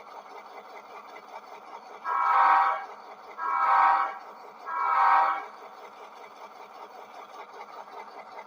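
A model diesel locomotive's sound decoder sounds its air horn three times, each blast a little under a second long, over the decoder's steady engine sound.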